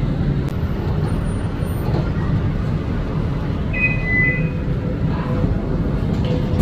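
Steady low rumble of an Eglinton Crosstown (Line 5) light-rail train running, heard from inside the car. A short two-note electronic tone sounds about four seconds in.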